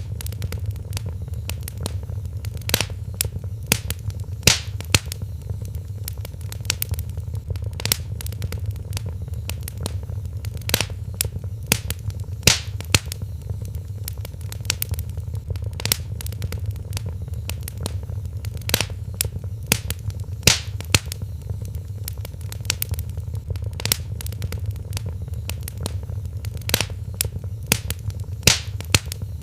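Wood fire burning in a fireplace, with irregular sharp crackles and pops from the burning logs over a steady low rumble of the flames.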